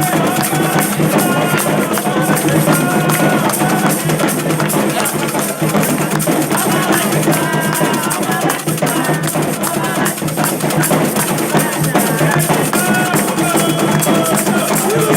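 Candomblé ceremonial music: drums beating a dense, steady rhythm while voices sing over it.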